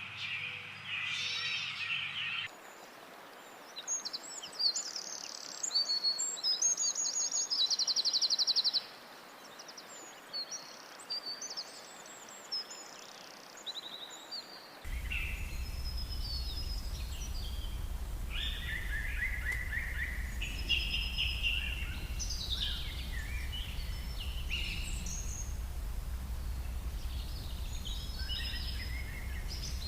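Forest birds singing: many short chirps and quick trills from several birds. The background changes abruptly about two and a half seconds in and again halfway through, where a steady low rumble comes in under the birdsong.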